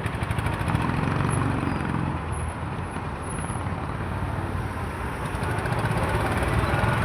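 Road traffic noise: a steady mix of passing vehicle engines, with motorcycle and engine sounds rising and falling.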